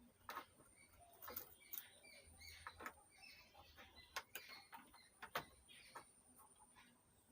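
Faint scattered clicks and taps of a mixer's circuit board and its hardware being handled and fitted back into the chassis.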